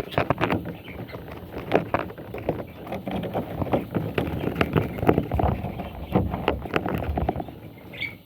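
Irregular scratching and knocking with a low rumble, and one short high chirp from a budgerigar near the end.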